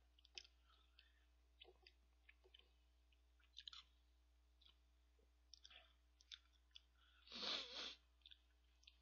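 Faint eating sounds of a man eating instant ramen with rice from a paper cup: soft chewing and scattered small clicks of the utensil and mouth. Near the end there is one louder breathy sound, under a second long.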